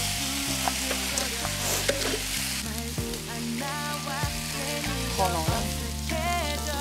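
Kimchi fried rice sizzling in a large iron pan while two wooden spatulas stir and scrape it, with scattered short clicks of wood on metal. Light background music with a bass line and a melody plays under it, more noticeable in the second half.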